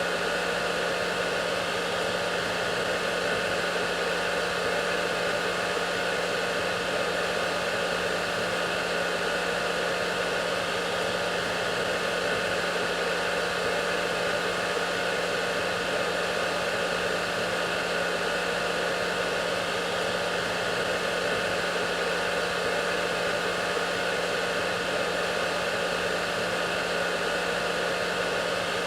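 Hair dryer running steadily: a continuous airflow rush with a steady motor hum underneath, unchanging throughout.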